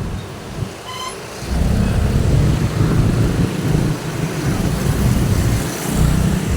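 Road traffic: after a quieter moment, a vehicle passes close by with a loud low rumble from about one and a half seconds in. A brief high tone sounds about a second in.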